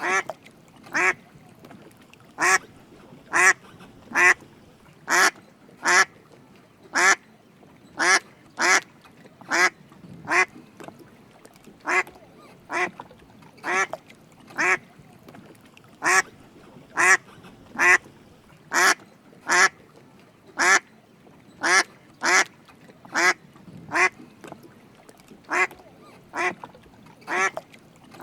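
Drake mallard giving short quacks one after another, about one or two a second with uneven spacing.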